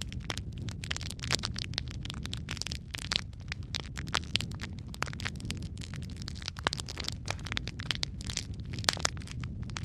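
Wood fire in a fireplace crackling, with many irregular sharp pops and snaps over a low steady rumble.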